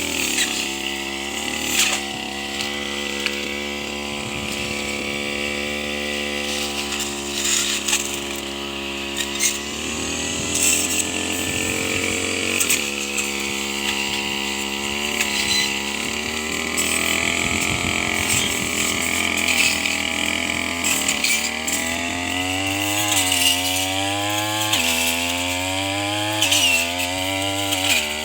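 Tanika brush cutter engine running at high revs, its pitch sagging and recovering as the blade cuts through grass and corn stalks, with sharp ticks as stalks are struck. In the last third the pitch wavers up and down every second or two.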